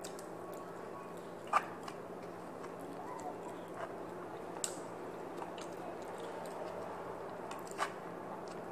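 Close-up eating sounds: chewing and mouth noises as food is eaten by hand, with a few short sharp clicks. The loudest click comes about a second and a half in and another near the end. A faint steady hum lies underneath.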